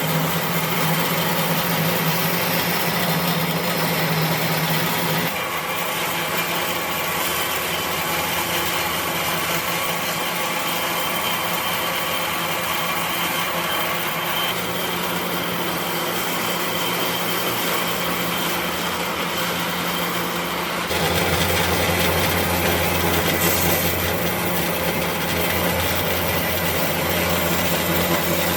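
Power tool running steadily as it works wood, with a continuous hum. The hum shifts about five seconds in and drops lower and louder about two-thirds of the way through.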